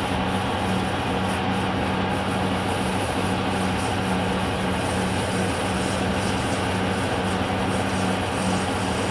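Metal lathe running steadily while turning down a 25 mm bronze bar, with a low hum that pulses a little over once a second.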